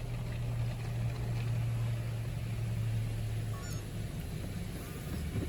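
Steady low mechanical hum heard from inside a car in an automatic car wash bay, easing slightly after about three and a half seconds.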